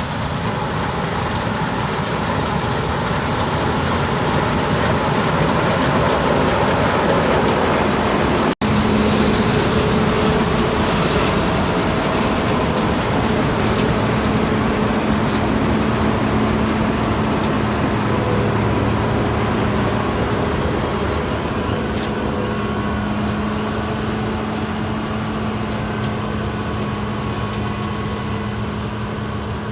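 Combine harvester with a row-crop header running in a soybean field: steady engine and threshing noise with a constant low hum. It grows louder over the first several seconds, breaks off abruptly for an instant about eight and a half seconds in, then runs on steadily and eases slightly near the end.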